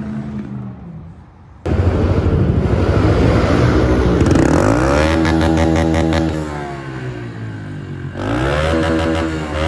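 Small pit bike engine running hard and revving. It starts abruptly about two seconds in, climbs in pitch about halfway through, drops off, then rises again near the end.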